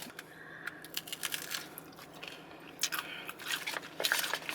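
A person biting into and chewing a crisp sweet waffle cone filled with crab cake and fries, with several short crunches.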